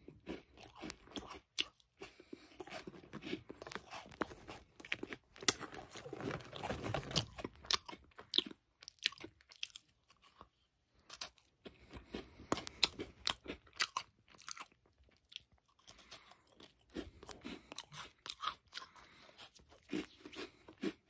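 Chocolate chip cookies being bitten and chewed: irregular crisp crunches with short pauses between mouthfuls.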